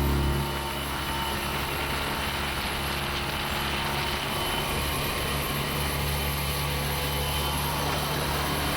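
Motorboat engine running steadily, a low drone under a wash of noise, easing slightly about half a second in.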